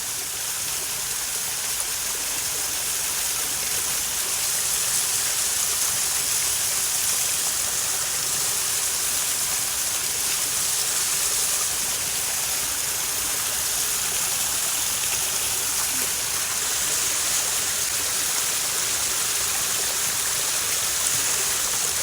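Steady rushing water, an even wash of sound with no breaks.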